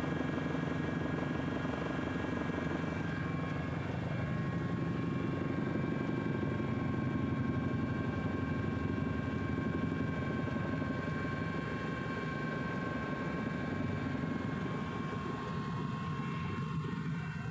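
Helicopter running: a steady, dense rotor and engine rumble with several constant high whining tones from the turbine, easing slightly near the end.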